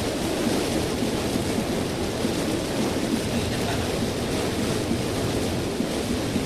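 Steady rushing noise inside a moving car's cabin: tyres on a wet road with heavy rain on the car's body.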